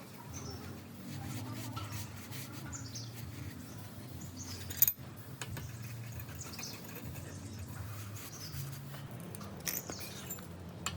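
Birds chirping now and then over a low, uneven hum, with one sharp click about five seconds in.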